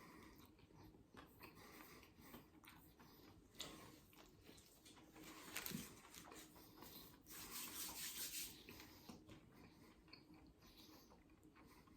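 Faint chewing of a buffalo chicken wrap, with soft rustling that gets briefly louder just before the middle and again a little past it.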